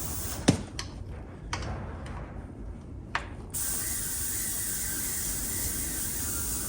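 A 14 mm spanner working on a brake-line banjo bolt: a few sharp metallic clicks, the loudest about half a second in, then the last one about three seconds in.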